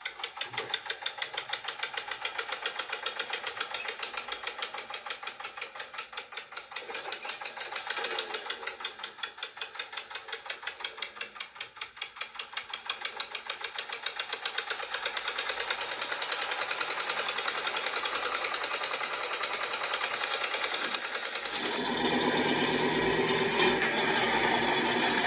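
Small motor of a miniature tractor running with a rapid, even, rhythmic chatter. About three-quarters of the way through it becomes louder and fuller.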